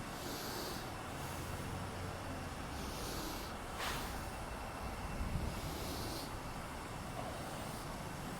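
Quiet, steady low rumble of a vehicle idling, with soft breathy hisses every two to three seconds.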